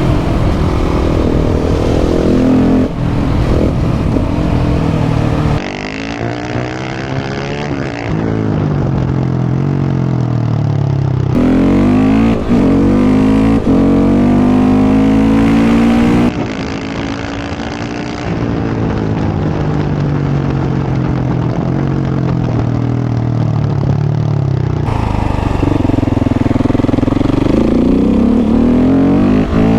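KTM 690 SMC R's single-cylinder engine breathing through a Leo Vince exhaust under way, revving up through the gears and dropping back off the throttle several times over.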